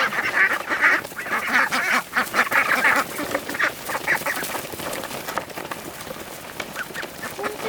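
A flock of ducks quacking, dense and overlapping for the first three seconds, then thinning out to scattered calls mixed with many short ticks.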